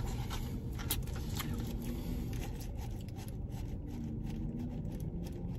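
Soft chewing, with small clicks and scrapes of food and a paper wrapper being handled, over a steady low rumble in a car's cabin.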